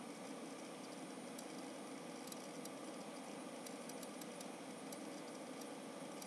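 Seagate FireCuda ST2000LX001 2TB hybrid drive making irregular light clicks, several close together around the middle, over a steady whir from the spinning drive and the computer's fan. The owner doubts it is the click of death and wonders whether it is the brand-new drive filling its NAND cache or a fault worth returning.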